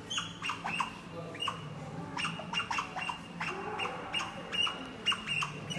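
An otter calling over and over: short, sharp, high-pitched squeaks in quick succession, about three a second.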